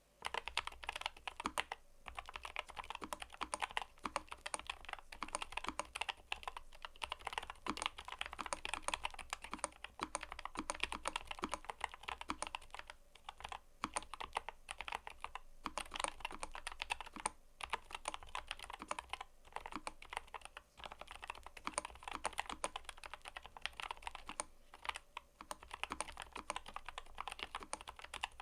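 Mechanical keyboard being typed on steadily: a fast, continuous run of keystroke clacks with a few brief pauses.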